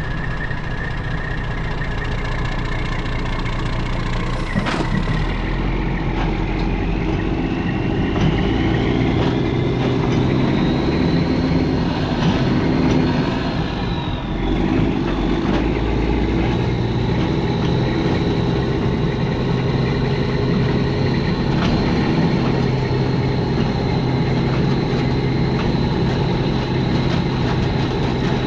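Diesel engine of a semi truck running steadily, with a high whistle that climbs in pitch about a third of the way in and then holds.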